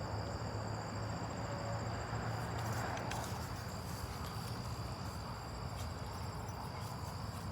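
Insects chirping steadily in an unbroken high-pitched chorus, over a low, even background hum.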